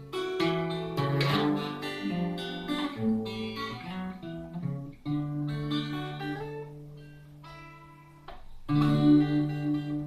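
Acoustic guitar playing the closing instrumental bars of a song: strummed and picked chords, then one chord left ringing and fading before a loud strum near the end.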